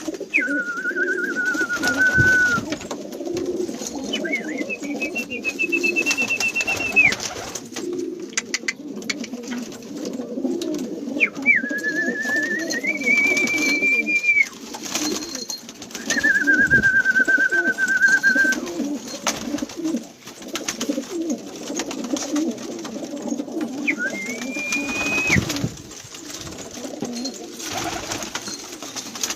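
A flock of domestic pigeons cooing continuously. Over it, five long, level high whistles sound one after another.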